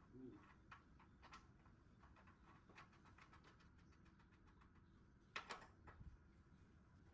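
Near silence with faint scattered clicks and light taps, including a short run of quick ticks in the middle and a slightly louder cluster of clicks about five and a half seconds in.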